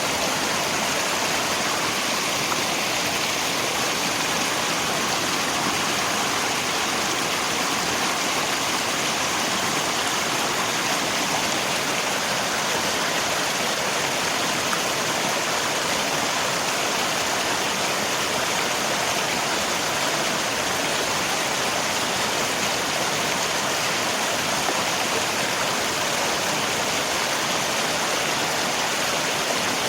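Steady, unbroken rush of flowing river water mixed with falling rain, an even hiss with no single splashes standing out.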